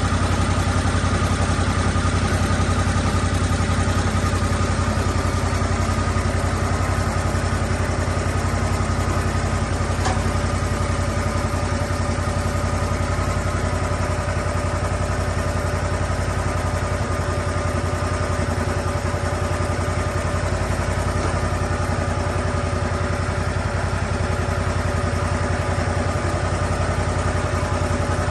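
Lucas Mill 10-30 swing blade sawmill running steadily, its engine holding an even speed with a steady whine over a low hum. A single short click comes about ten seconds in.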